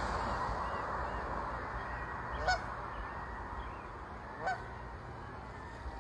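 Goose honking: two short honks about two seconds apart, over a steady background hiss.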